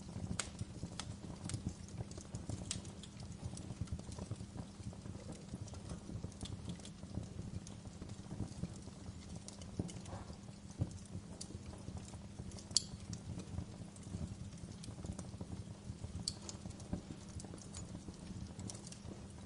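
Wood fire burning in a fireplace: a steady low rumble of flames with frequent small crackles and scattered sharp pops, the loudest pop about 13 seconds in.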